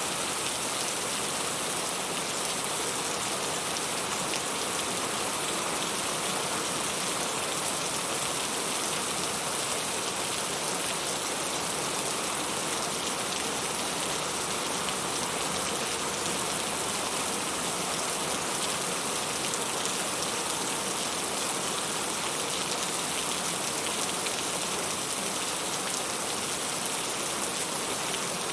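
Heavy, loud rain falling steadily, a dense even hiss of drops with no letup.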